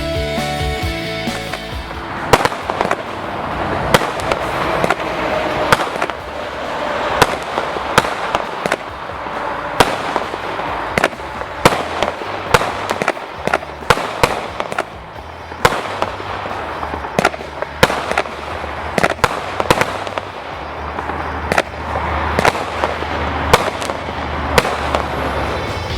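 A 19-shot firework cake firing, a quick, irregular series of sharp bangs and bursts that starts about two seconds in and runs on to near the end.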